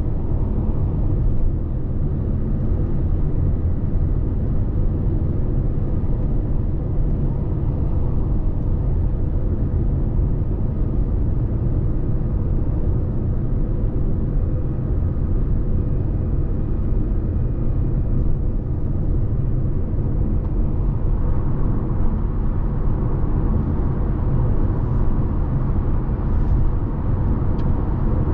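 2017 Lexus NX 300h hybrid SUV cruising at motorway speed: a steady low rumble of road, tyre and drivetrain noise heard from inside the cabin, with a faint steady hum above it.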